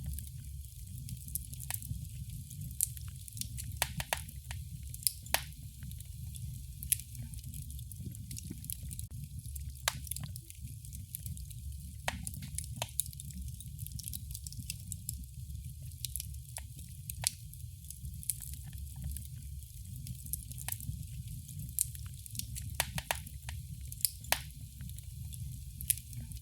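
Wood fire crackling in a fireplace: a steady low rumble of the flames with irregular sharp pops and snaps, a few of them much louder than the rest.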